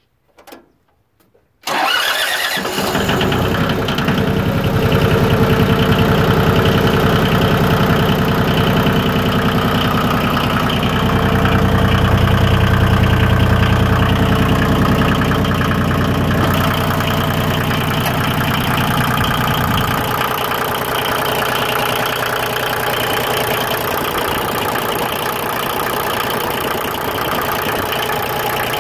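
Yanmar YM2310 compact tractor's three-cylinder diesel being started: a couple of faint clicks, then a brief crank on its new starter about two seconds in and the engine catches at once and runs steadily. About twenty seconds in its deep low note drops away and it runs on quieter.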